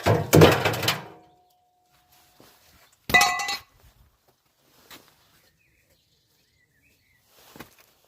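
Washing machine with a brick in its drum, banging and clattering violently, stops about a second in, leaving a fading ringing tone. About three seconds in comes a single loud metallic clang, then a few faint knocks.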